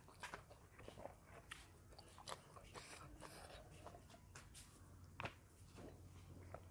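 Faint close-up eating sounds: soft chewing with scattered small mouth clicks, then sips of water from a glass.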